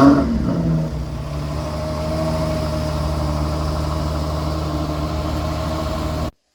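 Ferrari 12Cilindri Spider's 6.5-litre V12 just after start-up: the revs flare and fall back over the first second, then it settles into a steady idle. The sound cuts off suddenly near the end.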